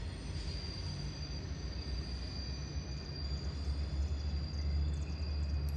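Low, steady rumble of a CSX diesel freight train, a weed-sprayer train of tank cars, moving away down the track, swelling slightly in the second half. A faint steady high tone sits over it.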